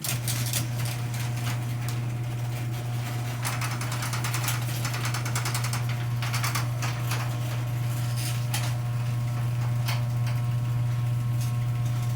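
Old LiftMaster 1/3 horsepower chain-drive garage door opener running the door down: a steady motor hum with the chain and door rattling and clicking over it, starting suddenly and cutting off near the end. The owners judge it a little noisy and in need of lubrication.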